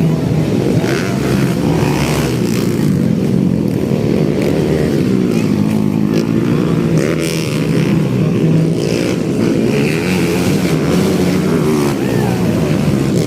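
Trail motorcycle engines running at a race, their pitch rising and falling as the riders rev and ease off.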